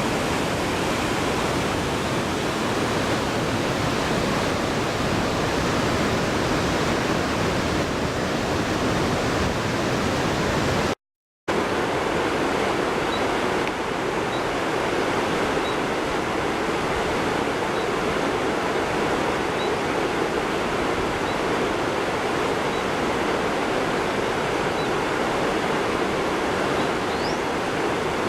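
Steady rush of a fast-flowing river, broken by a brief cut to silence about eleven seconds in. Faint short high peeps recur every second or so in the later part.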